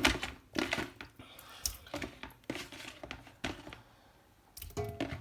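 A cooking pot and pieces of meat being handled, with a string of irregular knocks and thunks.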